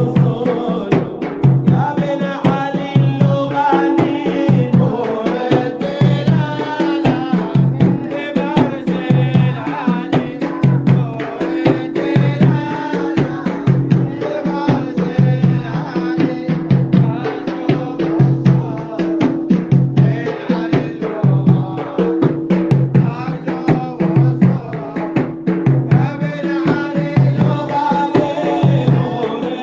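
Emirati maled devotional chant: voices singing a shalla melody over hand drums beating a steady, regular rhythm.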